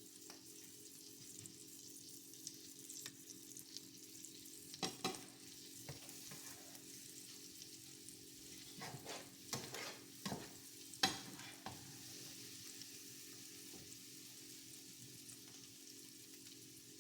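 Chickpeas frying in a hot pan, a faint steady sizzle, with a few scraping stirs from a utensil around five seconds in and again between nine and twelve seconds. They are being cooked until a little burnt.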